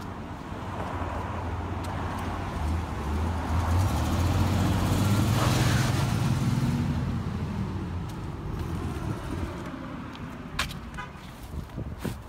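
A motor vehicle's engine rumble swells to a peak about five seconds in and then fades away. A short high chirp sounds about ten and a half seconds in.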